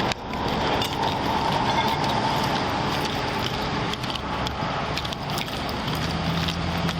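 Steady background noise of vehicles and traffic at a highway roadside, with scattered small clicks and rustles from handling. A steady whine fades out over the first two seconds.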